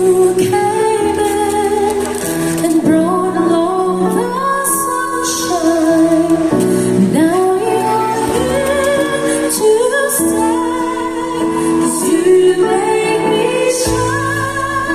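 Live music: a woman's singing voice with instrumental accompaniment, sustained notes and a low bass underneath.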